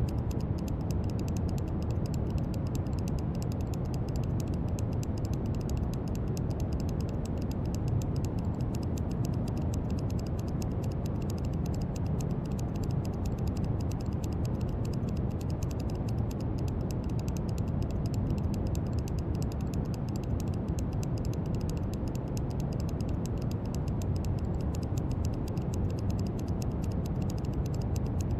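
Brown noise: a steady, deep rushing hiss with most of its weight in the low end and little treble, holding an even level without change.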